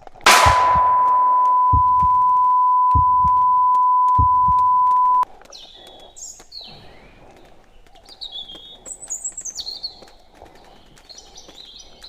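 A loud, steady single-pitch electronic beep, of the kind dubbed over speech to censor it, lasting about five seconds and cutting off suddenly, with a few dull thumps under it. After it, small birds chirp and call repeatedly.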